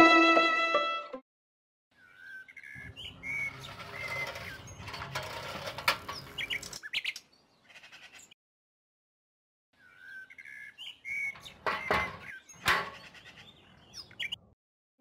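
Violin music fading out in the first second, then open-air ambience with birds chirping a few short notes, twice with a gap between. A little past the middle come two sharp clicks.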